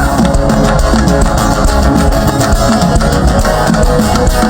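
Live worship band playing loudly, with no singing.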